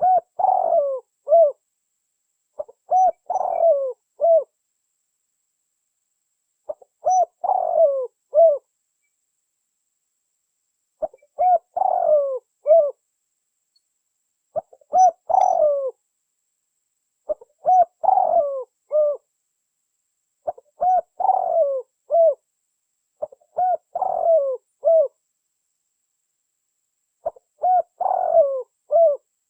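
Spotted dove (tekukur) cooing: a phrase of three or four coos, the last one short, repeated about every three to four seconds. This is a recorded lure call of the kind played to attract doves.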